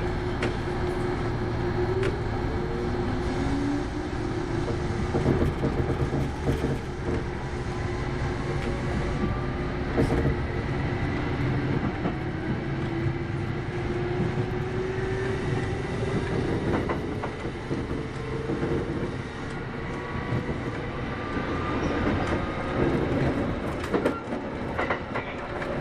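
Kintetsu 8810 series electric train running, heard from inside the car: a motor and gear whine rising slowly and steadily in pitch as the train gathers speed, over a steady rumble with scattered clicks of the wheels over rail joints.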